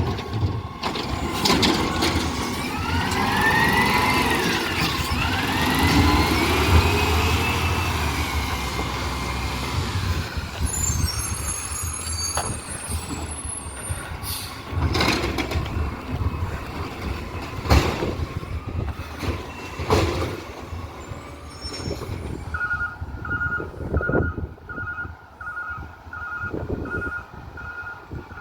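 Garbage truck working: engine running with rising and falling whines, then several sharp knocks. Near the end its reversing alarm beeps steadily, a little under twice a second.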